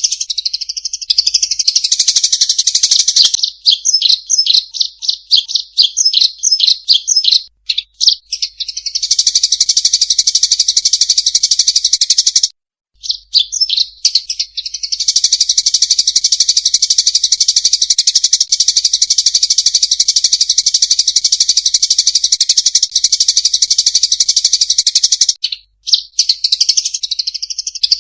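Eurasian tree sparrows giving their loud, high fighting chatter. Separate chirps give way to long runs of rapid, unbroken chirping, with a brief break about halfway through and another near the end.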